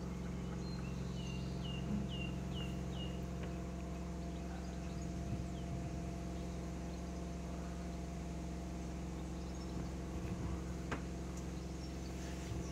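Steady hum of an electric narrowboat's drive motor under way, with a fixed low drone and a thin steady whine. Early on a bird gives a quick run of about six short, falling chirps.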